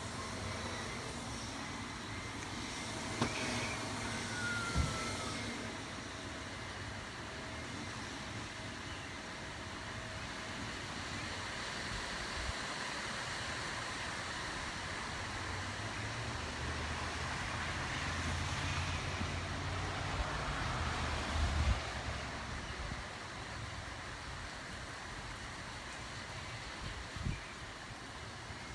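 Steady rain falling, an even hiss. A low rumble swells in the middle and fades, and a few short knocks sound.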